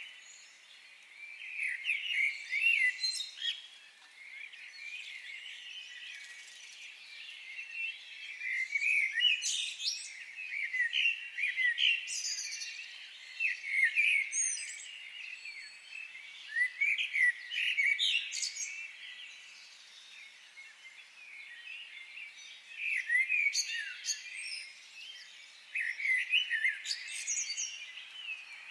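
Wild birds chirping and singing in a forest: quick, overlapping high chirps and short song phrases that come in busy stretches with thinner pauses between them.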